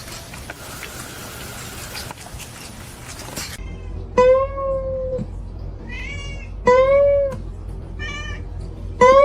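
A domestic cat meowing loudly again and again: three long, drawn-out meows and two shorter ones, starting about three and a half seconds in after a stretch of steady hiss.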